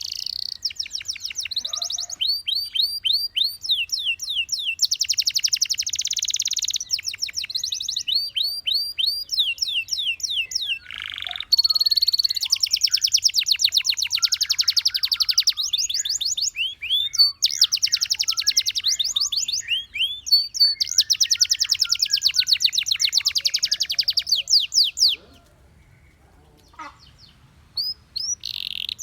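Canary singing a long song of rapid trills: each phrase a fast run of repeated notes, switching to a new phrase every second or two. The song breaks off for about three seconds near the end, then starts again.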